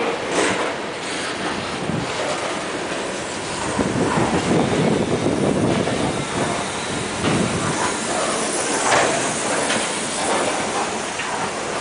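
Norfolk Southern unit coal train's gondola cars rolling past on steel wheels: a steady rumbling noise with an occasional sharp clack.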